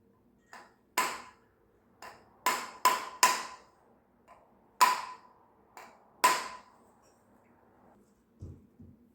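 Irregular sharp metallic knocks, about six loud strikes with a short ring and fainter taps between, then two dull low thuds near the end.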